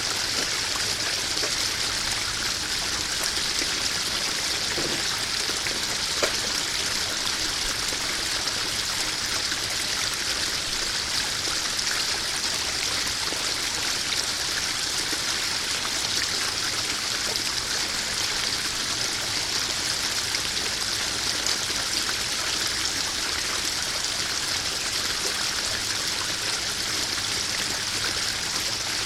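Small garden waterfall spilling into a koi pond: a steady splashing trickle of running water.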